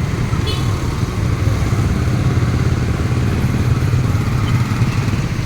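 Motorcycle engine running steadily while riding, with a steady low rumble and road noise.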